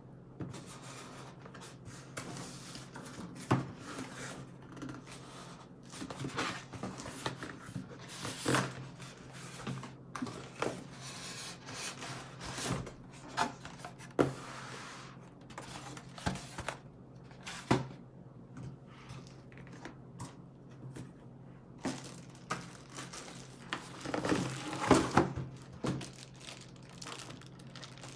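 Packaging being handled during an unboxing: crinkling and tearing with irregular knocks and thunks, busiest in a cluster about 24 seconds in, over a steady low hum.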